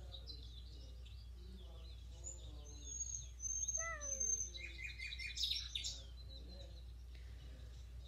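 Birds singing faintly: a run of high, thin whistled notes about two to four seconds in, then clusters of short chirps, over a low steady hum.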